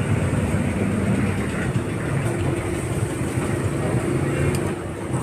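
Steady street traffic noise: engines running with a dense low rumble. A steady hum joins in about two seconds in.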